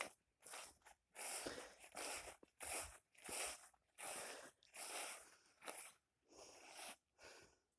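Footsteps crunching on the ground at a walking pace, a soft crunch with each step about every half to three-quarters of a second.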